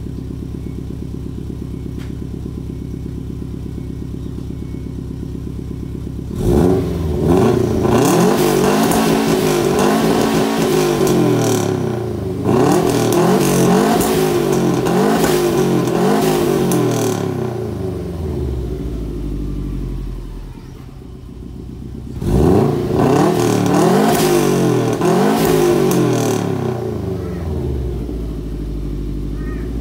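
2008 Subaru WRX STI's turbocharged flat-four engine, tuned to about 500 hp, idling steadily, then revved in a long series of blips that rise and fall in pitch, dropping back to idle and revved again in a second, shorter set, before settling to idle near the end.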